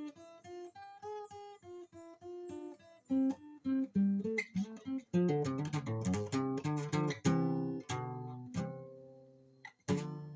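Solo guitar in open D tuning playing a freestyle blues riff. Single picked notes come first, then quicker strummed chords about halfway through, and a final strum near the end is left to ring out.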